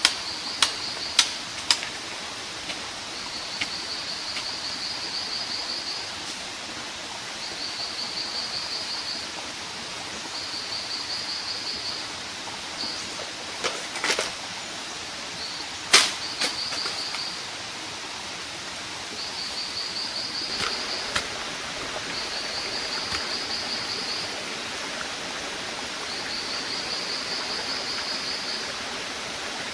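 Outdoor forest ambience: a steady hiss under a high, fast-pulsing trill that repeats in phrases of about two seconds with short gaps. Sharp knocks cut through: several quick ones in the first two seconds and two louder ones about halfway through.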